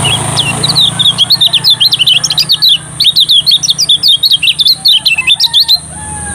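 Kecial kuning, a yellow white-eye, singing a fast, continuous twittering song of short, high, sharply sweeping chirps that stops about a second before the end. A steady high whine and a low hum run underneath.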